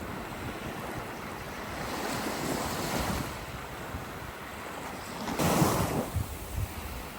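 Surf washing up on the beach, a steady rushing of waves, with wind buffeting the microphone. A louder rush comes about two thirds of the way through.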